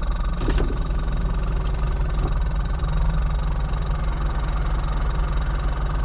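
Jeep Wrangler's V6 engine idling steadily while the vehicle is stopped, a constant low hum.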